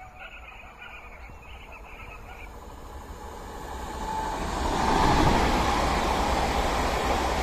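PKP Intercity ED161 Dart electric multiple unit approaching and passing at speed. Its wheel and rail noise builds from faint to loud about four to five seconds in, with a steady whine running through it.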